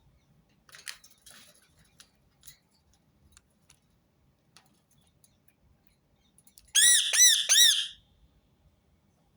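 Rose-ringed parakeet giving a quick run of about four shrill, arching squawks near the end, after a few seconds of faint clicks and rustles.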